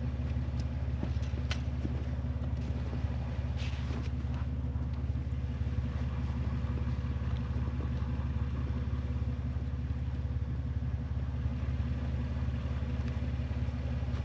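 A vehicle engine idling steadily with a low, even rumble, and a few faint clicks in the first few seconds.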